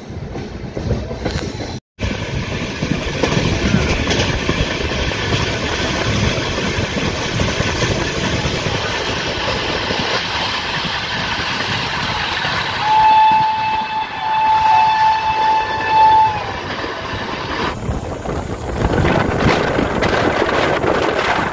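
Passenger train running at speed, heard from an open coach door: a steady rumble and rattle of wheels on the rails. About two-thirds of the way through, the locomotive's horn sounds two long blasts, one straight after the other.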